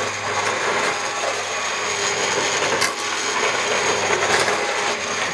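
Electric blender running steadily as it purées soup, with a constant motor hum, stopping right at the end.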